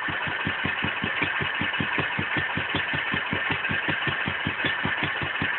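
Wolseley WD2 single-cylinder stationary engine running steadily on its first run after a rebuild, with even exhaust beats at about five or six a second.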